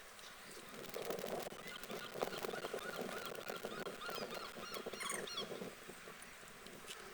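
Waterfowl calling on a lake, a dense chatter of rapid calls that builds about a second in and dies down near six seconds, with a few short high notes in the middle.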